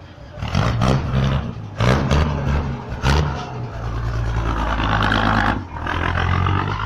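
Large bus engine running and revving up close, with a few sharp knocks or clatters in the first three seconds before it settles into a steady drone.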